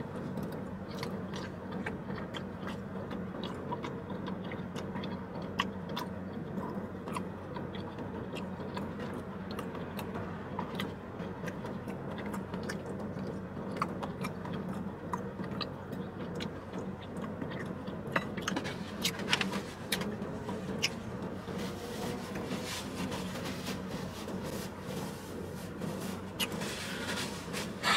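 A person chewing food, with small clicks and scrapes of a metal fork against a styrofoam takeout box, over a steady low hum. The clicks come thicker in the last third, when a paper napkin is rubbed over the mouth.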